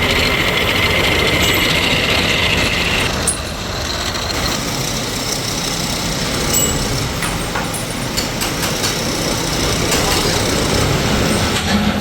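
Metalworking machinery running steadily, with a high whine that cuts off about three seconds in, then scattered light metallic clicks and knocks.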